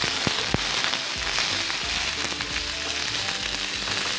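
Drumstick (moringa pod) pieces sizzling steadily as they fry in oil in a nonstick wok, being turned with a wooden spatula, with a few sharp clicks.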